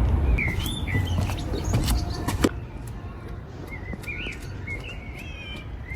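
Birds chirping, a run of short, curving calls, over a low rumble that drops away about two and a half seconds in.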